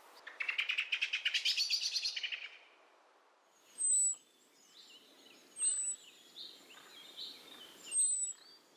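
Small songbirds calling: a rapid trill of repeated high notes lasting about two seconds, then three short, very high thin whistles a couple of seconds apart, with softer chirps in between.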